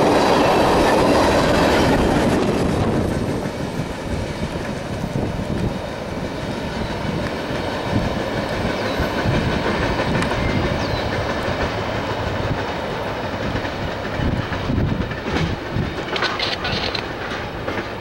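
Freight train of loaded tank cars rolling past, steel wheels running over the rails. Loud at first as the last cars go by, then it eases off about three seconds in and holds at a lower, steady level as the tail of the train draws away.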